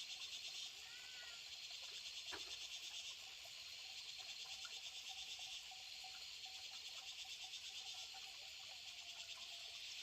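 Chorus of insects, crickets or cicadas, chirping in a steady, rapid pulse, with a faint bird chirp about a second in.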